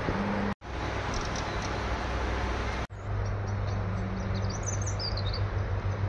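A steady outdoor background rumble that cuts out abruptly twice. A small bird chirps a short run of high calls about five seconds in.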